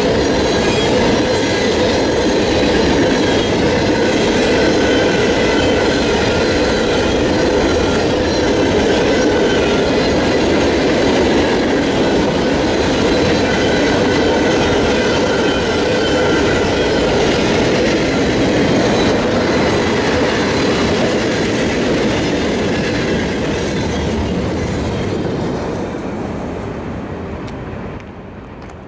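Freight cars rolling past close by: a steady rumble and clatter of steel wheels on rail, with thin high wheel squeal over it. The sound fades away near the end as the last cars go by.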